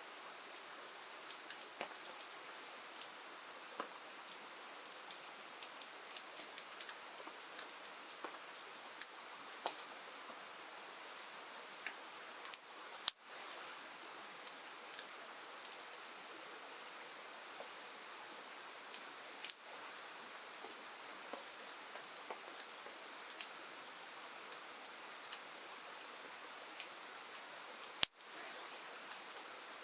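Steady rain hiss with many scattered sharp ticks and pops, a louder pop about halfway through and another near the end.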